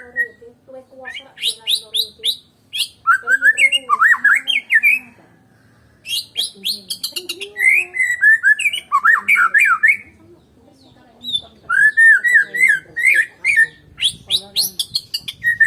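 White-rumped shama (Medan murai batu) singing loud, varied whistled phrases: rapid swooping notes and trills in four bouts, with short pauses about five and ten seconds in.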